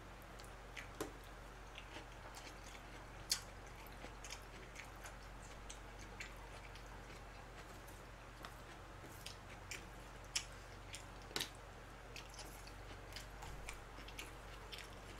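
Faint chewing and eating sounds from a man eating with chopsticks, with scattered small clicks and taps; the sharpest come about three seconds in and twice around ten and eleven seconds in. A low steady hum lies underneath.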